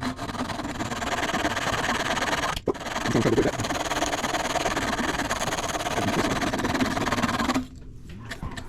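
Wood being abraded flat on the end of an antique chair rail: a steady rasping grind that breaks off briefly near the three-second mark and stops abruptly about a second before the end.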